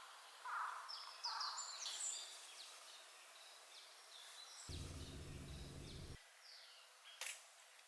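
Several wild birds chirping and calling, with short high whistles, some falling in pitch. A low hum cuts in for about a second and a half in the middle, and a sharp click sounds near the end.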